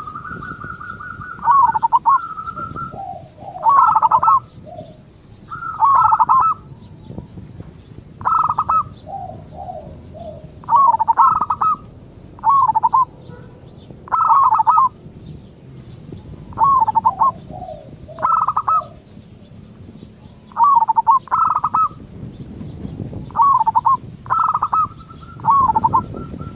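Zebra doves (perkutut) cooing: short rolling, trilled coo phrases repeated about every two seconds, with a long even trill at the start and again near the end.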